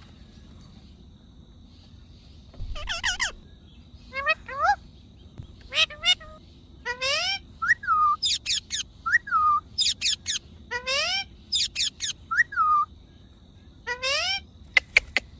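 Parrot calling in a string of short squawks and whistles with pauses between; some calls sweep sharply upward and others glide down. A few quick, sharp clicks come near the end.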